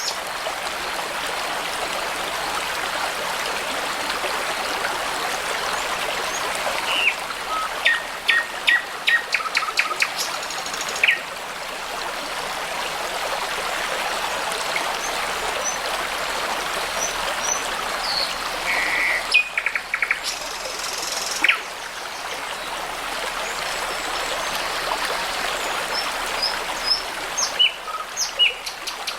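A babbling brook runs steadily, with songbirds singing over it. Their song is short whistles and quick runs of repeated notes, busiest about seven to eleven seconds in, again around nineteen to twenty-one seconds, and near the end.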